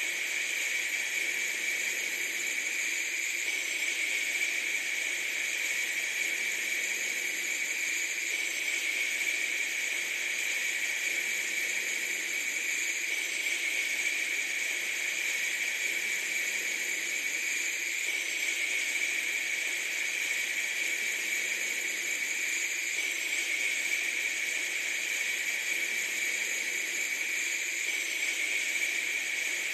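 Steady hissing noise at an even level, with a faint change that repeats about every five seconds.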